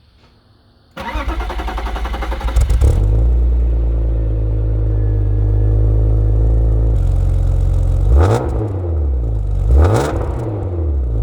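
BMW E36 328i's inline-six engine, still on its stock muffler, cranked by the starter about a second in, catching after roughly two seconds and settling into a steady idle. It is then revved twice near the end, each rev rising and falling back.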